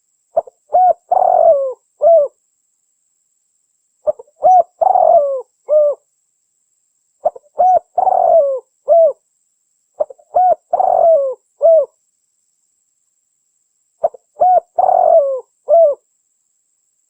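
Spotted dove (tekukur) song: five repeated phrases, each a couple of short notes, a longer rolling coo and a closing note, about three seconds apart. This is the call used to lure wild spotted doves.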